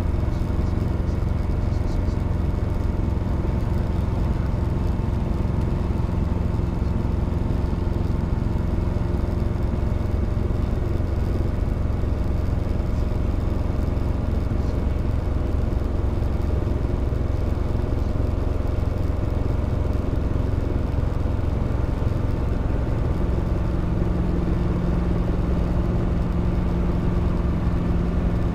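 Robinson R22 helicopter's piston engine and rotors running with a steady drone; one low tone grows stronger near the end.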